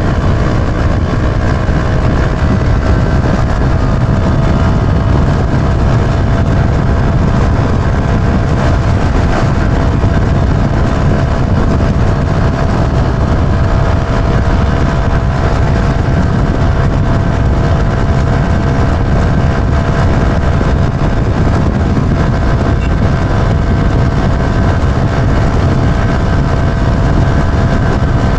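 Yamaha YB125Z DX motorcycle's 125 cc single-cylinder four-stroke engine running steadily under way, its pitch rising slightly at first and then holding level. Heavy wind and road rush lies under the engine note.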